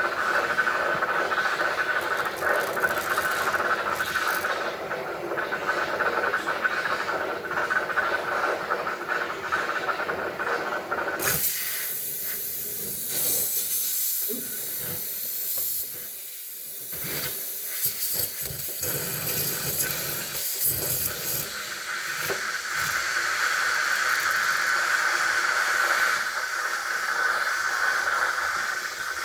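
Steady hiss of a hand-held heating tool melting ice off a frozen-up refrigerator freezer evaporator. About eleven seconds in the sound changes to a brighter, higher hiss for some ten seconds, then returns to the first, lower hiss.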